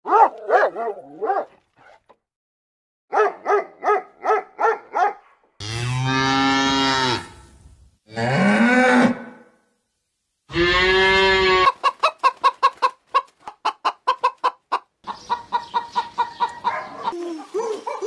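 A dog yapping in two quick runs of short, high barks, then a cow mooing three times in long, low calls. Near the end comes a fast run of short, clipped calls, about five a second.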